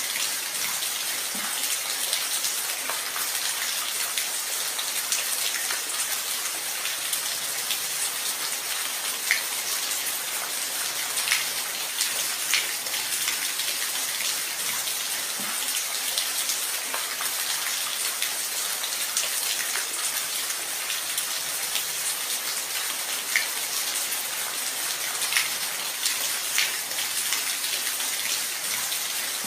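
Steady rain, a dense hiss with scattered individual drops ticking louder here and there.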